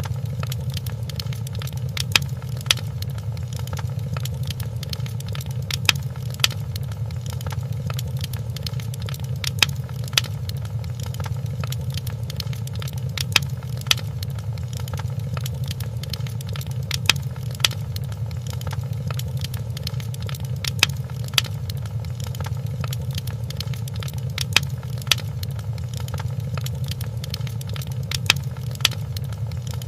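Wood fire in a fireplace crackling: a steady low rush with sharp pops that come in close pairs, a pair repeating evenly about every four seconds.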